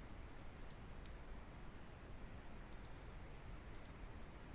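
Faint, sharp clicks on a laptop, in quick pairs about three times, over a low steady room hum.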